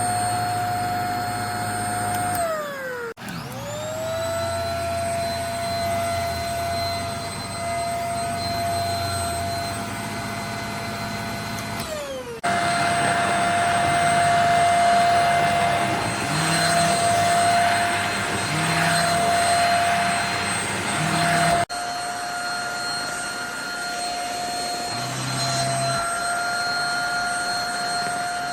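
JPHYLL Ultra-UVC-K16 corded mattress vacuum running with a steady high motor whine over the hiss of its suction. Early on the motor winds down with a falling whine and then spins back up. A little before halfway it winds down again. A louder, hissier stretch follows in the middle.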